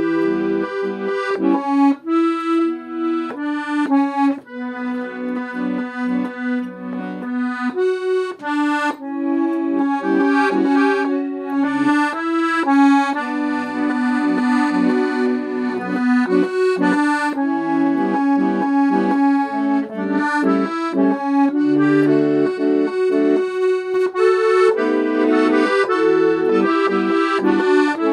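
Accordion playing a song accompaniment in B minor: a melody over rhythmic chords and bass notes, with no singing.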